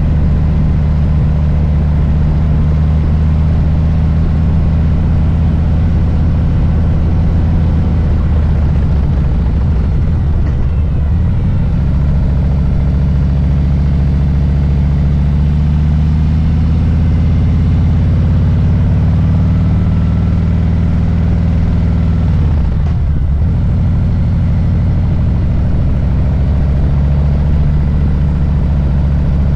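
Harley-Davidson Low Rider S's Milwaukee-Eight V-twin running as the motorcycle rides, a deep steady rumble whose pitch dips and changes twice, about ten seconds in and again a little past twenty seconds.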